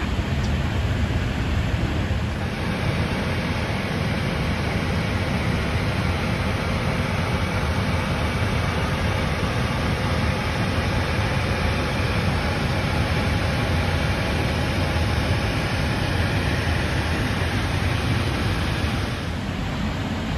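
Steady cockpit noise of an Airbus A321neo airliner: an even rush of airflow and engine noise, heaviest in the low end.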